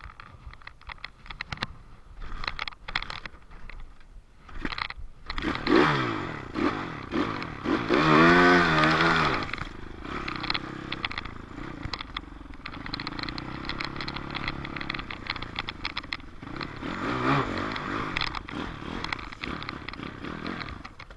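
Dirt bike engine revving hard and wavering in pitch about a quarter of the way in. It then runs at a steadier, lower speed and revs up once more near the end, with clattering and rattling before the first rev.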